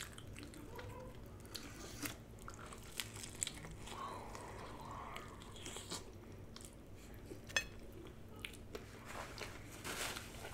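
Close-miked biting and chewing of fried chicken hot wings dipped in ranch dressing: soft, wet chewing with scattered crisp clicks and crunches.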